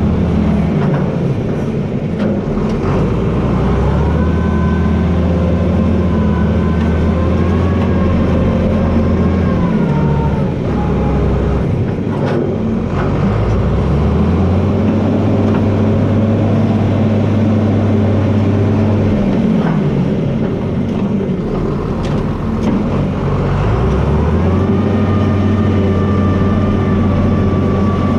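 John Deere 4320 tractor's six-cylinder turbocharged diesel running, with its engine speed dropping and recovering a few times. A high whine rises and falls along with it.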